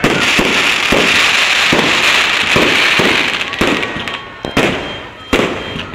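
Aerial fireworks going off: a dense crackling hiss with a quick run of bangs for the first three seconds or so, then separate sharp bangs about a second apart.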